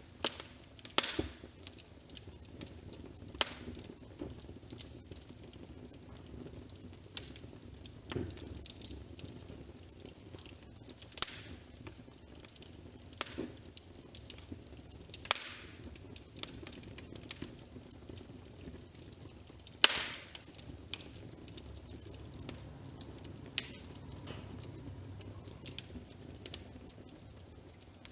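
Wood fire crackling, with irregular sharp pops every second or so over a faint low steady rumble.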